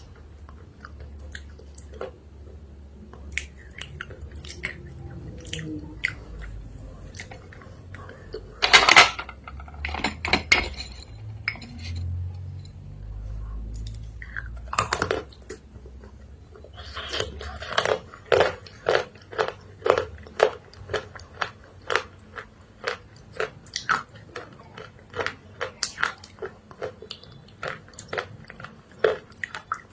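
Close-up mouth sounds of a person biting and chewing earthy clay paste, with crisp crunches. The loudest crunch comes about nine seconds in, and the second half settles into a quicker run of about one or two crunches a second.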